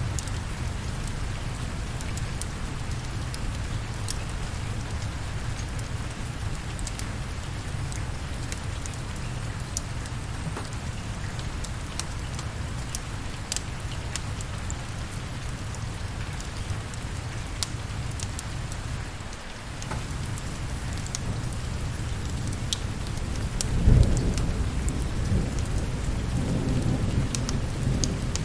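Steady rain with scattered sharp ticks. About three-quarters of the way through, a thunderclap breaks in and rumbles on for a few seconds.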